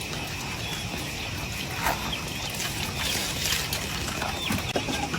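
Steady hiss of rain and running water, with a couple of sharp knocks about two seconds in and near the end.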